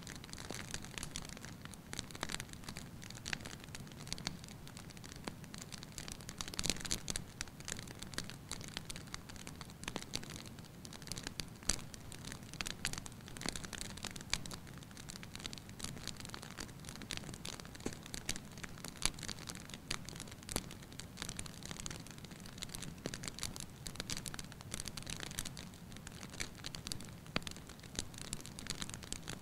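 Wood fire burning in a fireplace: a steady low rumble of flames with constant irregular crackles and pops.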